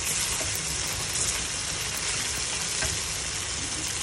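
Beef slices in curry spice paste sizzling in a steel wok as a slotted metal spatula stirs them, a steady frying hiss with a few light ticks and scrapes of the spatula against the pan.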